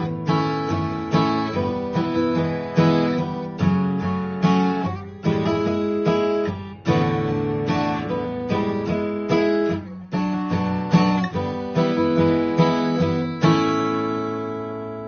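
Background music: acoustic guitar playing chords, each struck sharply and left to ring and fade, about one to two strokes a second.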